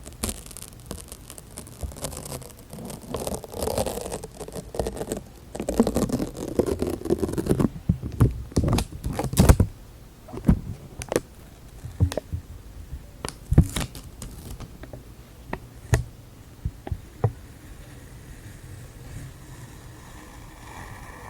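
Close-miked ASMR handling sounds: rustling and scratching for about the first half, then scattered sharp taps and clicks.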